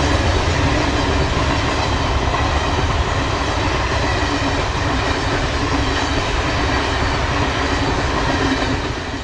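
LHB passenger coaches of an express train rushing past at speed: a steady rumble and rush of wheels on rail with clickety-clack over the joints, dropping away near the end.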